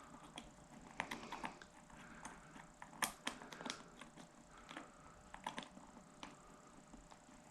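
Faint, irregular clicks and taps of small metal carburetor parts being handled while a part is threaded onto the Toro push mower's carburetor by hand, with the sharpest click about three seconds in.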